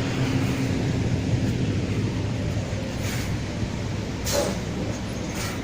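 Scania K320iA articulated bus's 9-litre diesel engine running with a steady low drone, with a few brief hisses about three, four and five seconds in.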